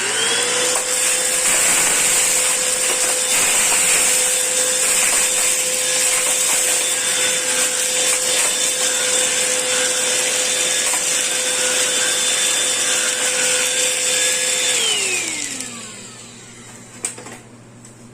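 Black+Decker POWERSERIES Extreme BSV2020G 20-volt cordless stick vacuum switched on and running steadily, picking up spilled dry cat food. It spins up with a rising whine, holds a steady high whine, and is switched off about 15 s in, the motor winding down with a falling whine. A single click comes near the end.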